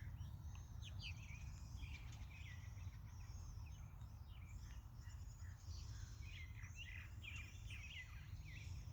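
Faint chorus of small birds chirping and twittering, many short quick calls overlapping, over a steady low rumble.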